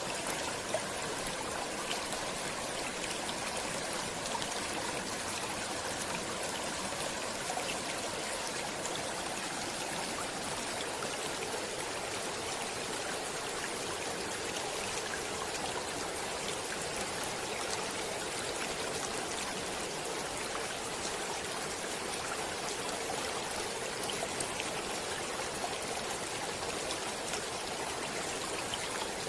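A stream running steadily over rocks: a continuous rushing and trickling of water, with small splashes and drips scattered through it.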